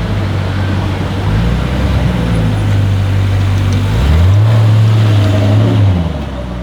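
Jaguar F-Type SVR's supercharged V8 running at low, steady revs. About four seconds in it is revved up and held there, louder, and it drops back down just before the end.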